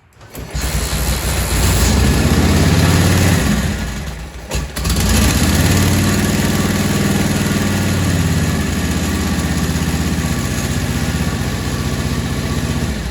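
1942 Harley-Davidson flathead V-twin started by hand on the kick starter, catching at once and running. About four and a half seconds in it sags briefly, then picks back up and runs steadily. It starts this easily because the engine is pre-warmed and, in the owner's words, worn out.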